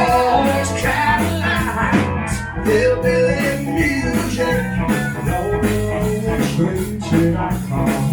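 Live rock and country band playing: electric guitar and a steady drum beat, with a singer's voice.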